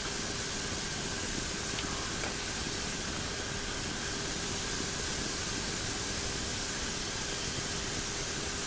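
Steady rushing cockpit noise of a turboprop airliner climbing after takeoff, with a faint steady hum underneath.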